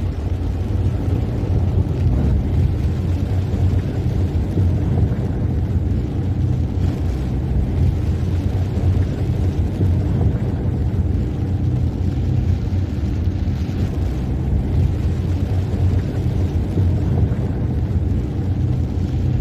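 Steady low rumble of a car being driven on a rain-wet road: engine and tyre noise.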